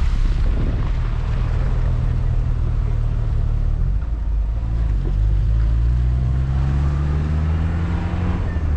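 Vehicle engine running steadily on an uphill mountain road, its pitch climbing over the last few seconds, then dropping sharply near the end.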